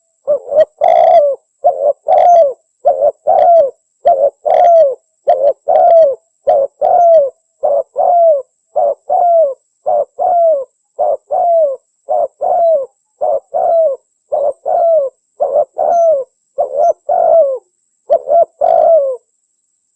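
Spotted dove cooing in a rapid run of short coos, many of them paired, each dropping in pitch at its end, with a short break near the end. This is a recorded lure call of the kind played to draw wild spotted doves in for trapping.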